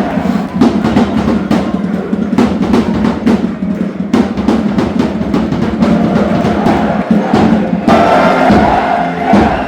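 Football supporters chanting in the stands to a fast, heavy drum beat, the singing swelling about eight seconds in.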